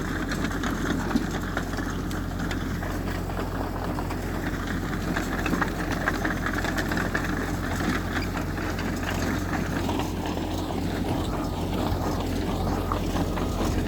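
Heavy diesel earthmoving machinery running steadily with a continuous low engine drone.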